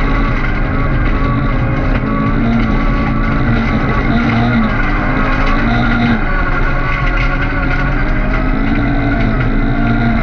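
Opel Astra autocross car's engine running hard under racing load, heard from inside the cockpit, its pitch rising and falling repeatedly as the driver works the throttle and gears.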